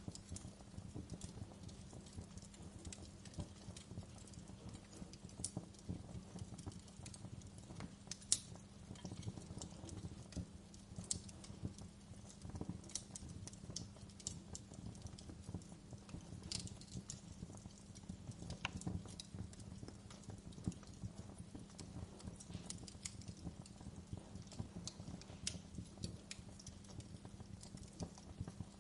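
Wood fire crackling in a fireplace: an irregular stream of small pops and snaps over a low, steady hum, with one sharper pop about eight seconds in.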